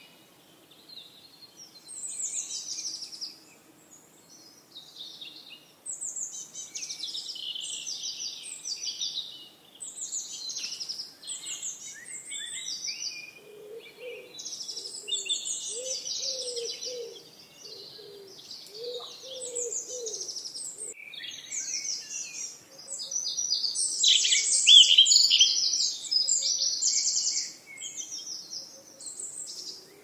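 Several songbirds singing at once: overlapping high chirps and trilled phrases with short gaps between them. A lower repeated call joins for several seconds in the middle, and the song is loudest and densest near the end.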